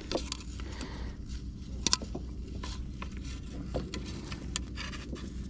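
Scattered light knocks and scrapes, the sharpest about two seconds in, over a steady low hum.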